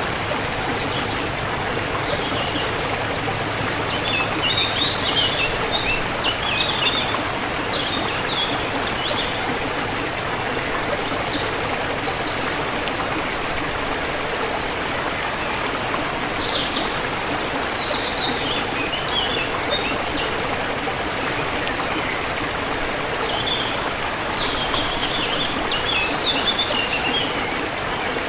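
Forest river flowing with a steady rushing and trickling, while small birds chirp in short high bursts every few seconds.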